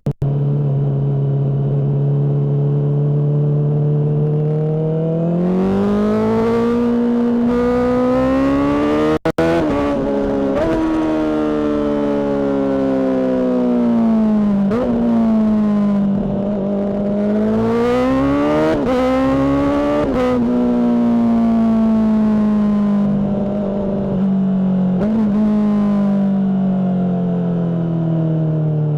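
Honda CBR600RR inline-four running through a Mivv exhaust, revs rising hard through two accelerations with quick breaks at the gear changes. Short rev blips come as it slows, and the revs fall away slowly near the end.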